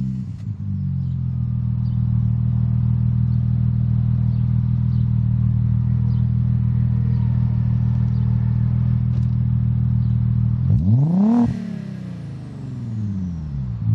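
Audi S4's 2.7-litre twin-turbo V6 through a JHM 2.5-inch exhaust with catalytic converters, idling steadily. About eleven seconds in it gets one quick blip of the throttle and falls back to idle, with a faint falling whistle as it drops.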